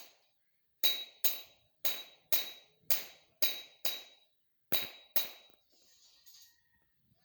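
A metal tool striking a hard object again and again, about two blows a second, each blow with a short metallic ring; the blows pause briefly near the end.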